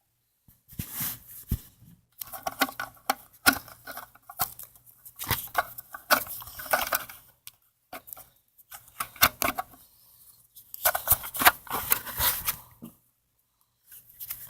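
Foam Nerf darts being pushed one at a time into a blaster's magazine, with bursts of plastic clicking and rustling broken by short pauses.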